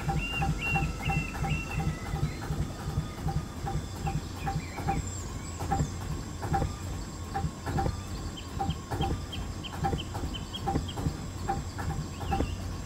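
Gardner 2L2 two-cylinder diesel engine running with a steady, even beat and a regular light ticking.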